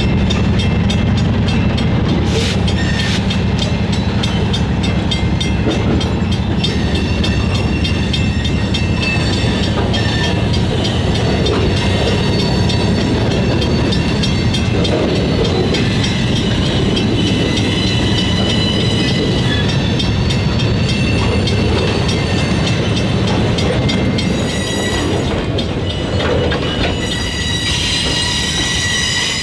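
Freight train rolling by with a steady low rumble, while steel wheels squeal in thin high tones that grow stronger near the end.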